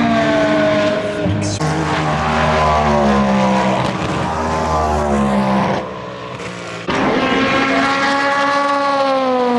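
Endurance racing cars passing at speed, their engines bending up and down in pitch with gear changes and falling in pitch as they go by. The sound changes abruptly a few times between different cars.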